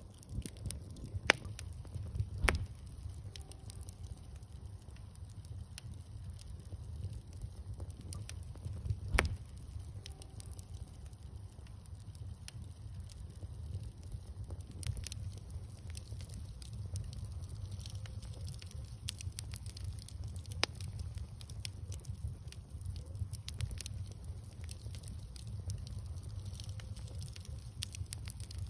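Outdoor bonfire crackling, with frequent small pops and a few sharp louder snaps over a steady low rumble of burning wood.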